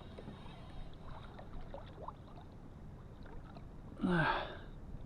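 Water moving faintly around a kayak, with a few small splashes. About four seconds in comes a short loud gasp from the angler, the loudest sound.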